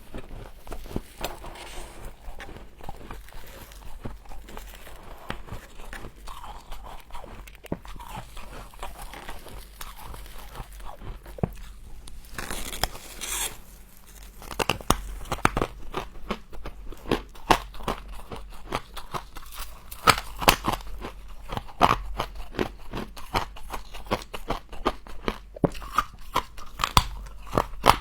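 Close-miked crunching and chewing of mouthfuls of frost: many crisp, sharp crunches, with a brief rushing noise about halfway through, after which the crunches come louder and thicker.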